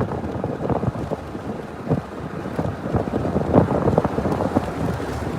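Wind buffeting the microphone over the rumble of a moving vehicle, with many short irregular thumps.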